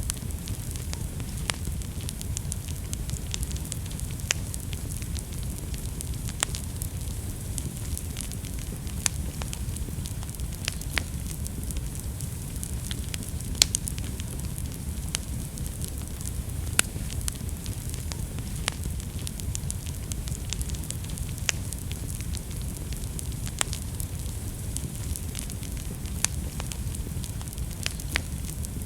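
Fire burning in a fireplace and crackling, with frequent irregular sharp pops over a steady low rumble and hiss.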